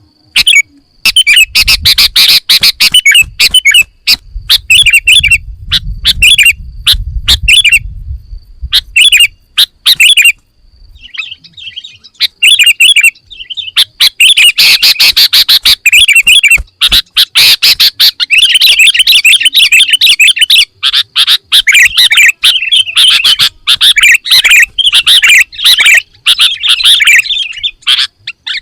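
Sooty-headed bulbul (kutilang) singing a loud, varied song of quick chirped phrases, full of fill-in phrases ('isian'). The phrases come in separate bursts at first, then run almost without pause from about halfway through.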